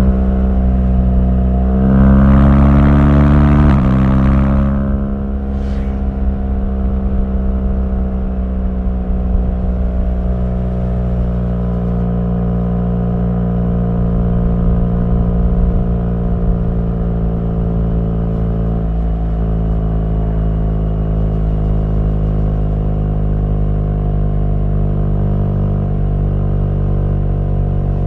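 BMW R1200GS boxer-twin engine pulling harder for a couple of seconds, then the throttle comes off sharply and it runs on steadily at lower revs.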